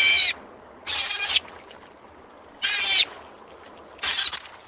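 Otter giving high-pitched squealing calls, each about half a second long. There are four in all, with short pauses between them.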